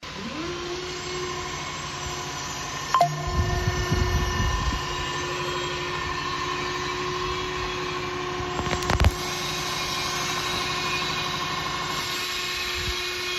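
Electric forklift's motor whining as it spins up, then holding one steady pitch, with a few clunks about three to five seconds in and a sharp click near nine seconds.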